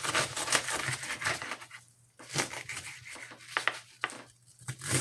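A raw head of cabbage being cut up and broken apart: crisp crunching and tearing in irregular bursts, with two brief pauses.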